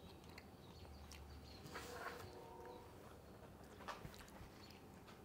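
Near silence: faint chewing and mouth sounds of a man eating a bite of grilled sweetbread, with a soft, brief murmur about two seconds in.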